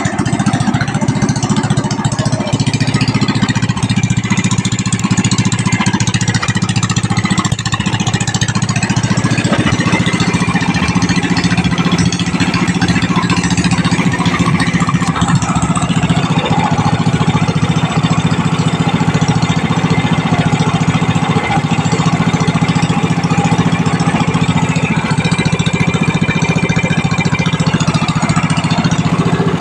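An 18 hp ProQuip gas engine running steadily, a loud even engine note.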